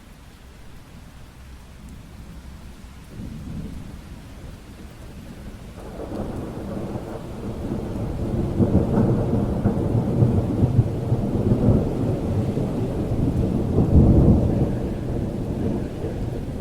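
Long roll of thunder over steady rain: a low rumble swells in about a third of the way through, stays strong with its loudest peak near the end, then starts to ease off.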